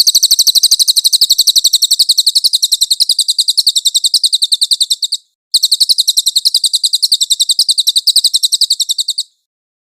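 High-pitched bird song, a rapid, even run of repeated notes in two long strings of about five and four seconds with a brief break between them.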